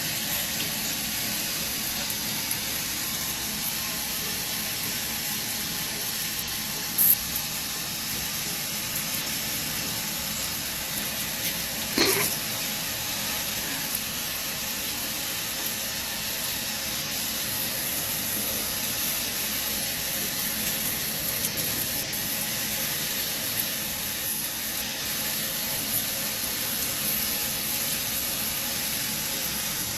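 A steady hiss like running water, with one brief sharp sound about 7 seconds in and another about 12 seconds in.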